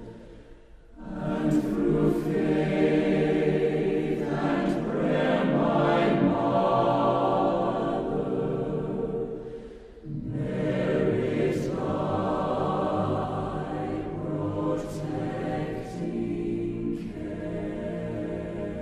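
Background music: a choir singing slow, sustained chords, with brief breaks about a second in and again about ten seconds in.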